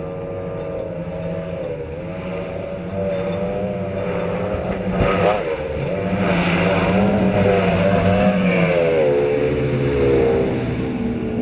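Engines of a Skater performance catamaran running hard at speed, their pitch wavering up and down. They grow louder from about four seconds in and ease off slightly near the end.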